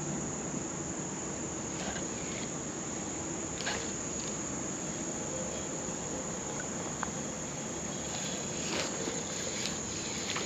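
Insects trilling in one steady, unbroken high tone over an even low hiss, with a few faint clicks.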